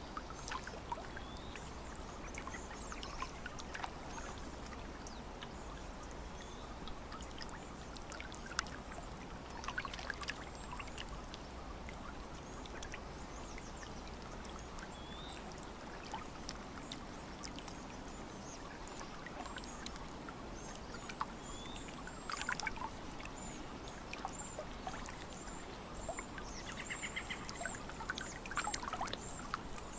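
Lake water lapping and splashing against the shore in small irregular laps, with faint birdsong; near the end a bird gives a run of short, high, repeated chirps.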